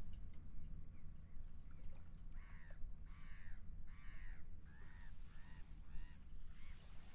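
Seagull calling in a run of about eight short, arched cries starting a little over two seconds in, the first three loudest and the later ones shorter, over a steady low rumble of wind and water.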